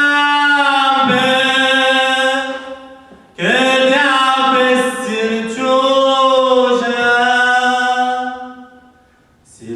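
Unaccompanied singing of a Romani-language song in two long phrases of drawn-out, sustained notes, each fading away; the second phrase starts about three and a half seconds in.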